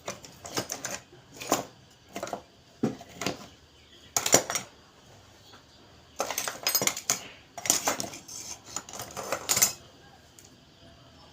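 Metal parts and tools clinking and clattering in irregular bursts as a gas stove's ignition assembly is handled and taken apart; the busiest run of clatter falls in the second half.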